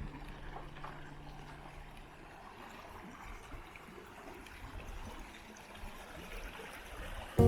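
Water running in a small stream, a steady trickling rush.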